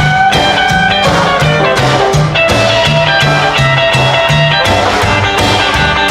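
Rock and roll band playing an instrumental break with no vocals: held lead guitar notes over a stepping bass line and a steady drum beat.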